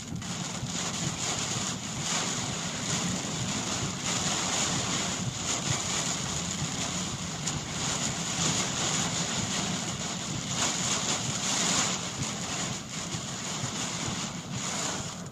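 Heavy thunderstorm rain pounding on a moving car, heard from inside the cabin, over a low steady hum from the car and its tyres on the wet road.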